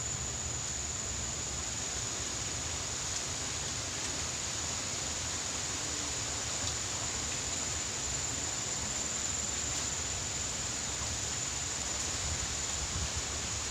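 Steady outdoor background noise with a constant thin high-pitched whine, and no distinct events.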